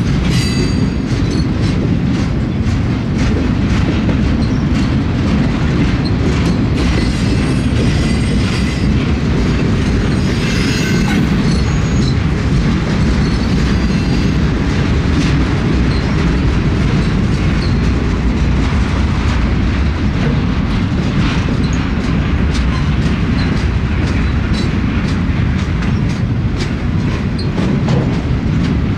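Freight train cars rolling past with a steady low rumble and rapid clacking of wheels over the rail joints. Brief high-pitched wheel squeals come a few times in the first half.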